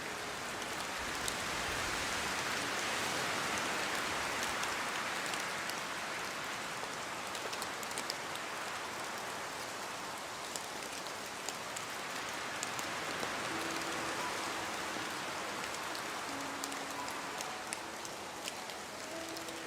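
Steady heavy rainfall: a dense hiss of rain with many small drop ticks on a hard surface, swelling slightly a few seconds in.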